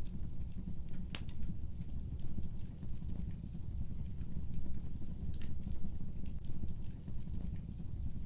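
Fire burning in a fireplace: a steady low rumble of flame with scattered crackles and pops, a sharp pop about a second in and another a little past the middle.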